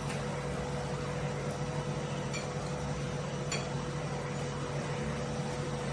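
Steady machine hum with a constant low drone and a faint higher tone, and two light clicks near the middle.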